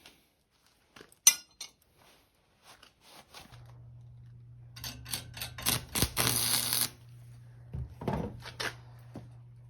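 Hard metal pieces clinking and knocking as they are handled, with a sharp knock about a second in and a denser clatter with scraping between about five and seven seconds in. A low steady hum comes in a few seconds in and carries on.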